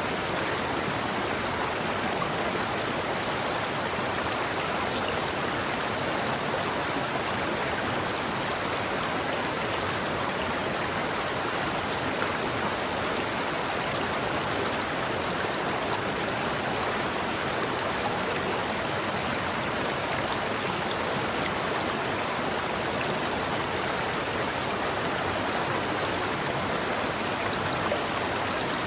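River water flowing over rocks, a steady even rushing with small gurgles.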